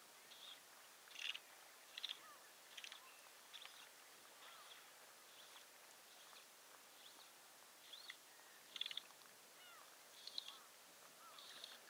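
Faint bird calls: short, high chirps and little rising-and-falling whistled notes, about one a second, over quiet open-air hiss.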